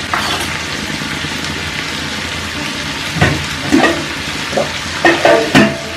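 Drumstick pieces, onion and tomato sizzling steadily in hot oil in a non-stick frying pan, with a few short knocks in the second half.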